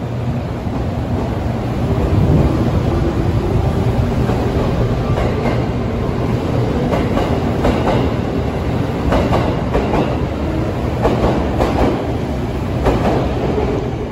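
JR Kyushu 787 series eight-car express train pulling out of the platform and running past close by: a steady rumble, with wheels clacking over the rail joints from about five seconds in, the clacks coming more and more often as it gathers speed.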